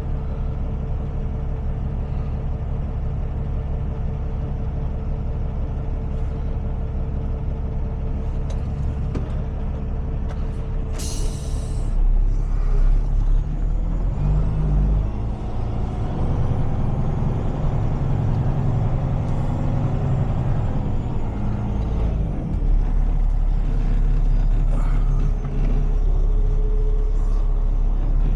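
Heavy truck's diesel engine idling, with one short air-brake hiss about eleven seconds in; after that the engine runs louder and uneven, as if working under load.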